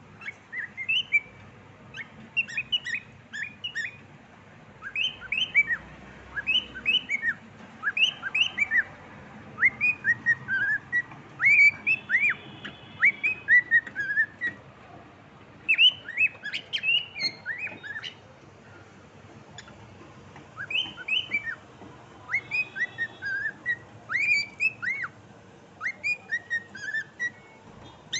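Cockatiel whistling its song: quick runs of short whistled notes sliding up and down, in phrases of a few seconds with short pauses between.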